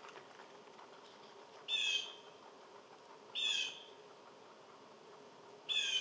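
A bird calling, the same short call three times, about two seconds apart, each call slightly falling in pitch.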